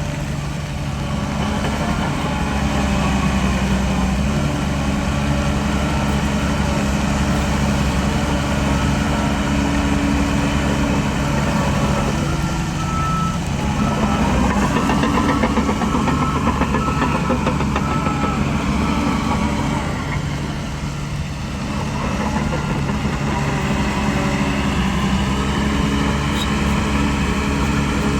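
Heavy diesel engine of an earthmoving machine running steadily under load. Its note dips briefly twice, once near the middle and once about three-quarters through, then picks up again.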